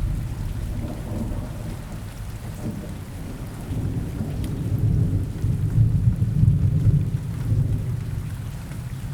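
Steady rain with scattered drop ticks over a deep rolling thunder rumble. The rumble eases about two seconds in, then swells again through the middle before fading near the end.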